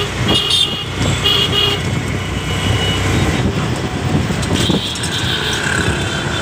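Loud traffic noise with several short horn toots, the last one followed by a longer held tone near the end.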